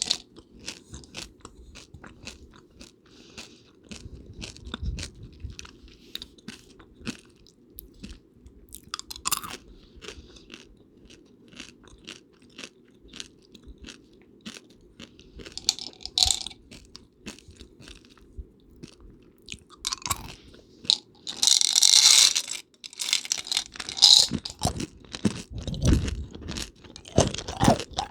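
Close-miked crunching and chewing of candy-shelled peanut butter M&Ms: many short, sharp crunches, with louder bursts about three-quarters of the way through, over a steady low hum.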